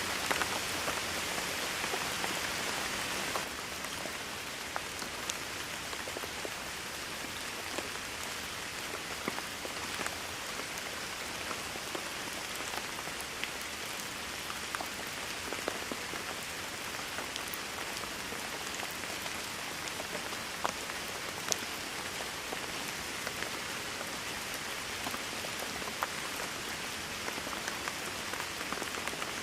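Steady rain falling, a dense even hiss with scattered individual drops ticking sharply on a surface. It drops slightly in level about three and a half seconds in.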